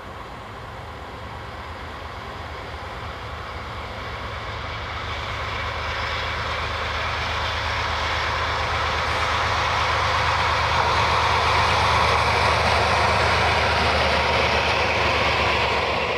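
A train approaching on the line, its running noise growing steadily louder over about twelve seconds and then holding close by.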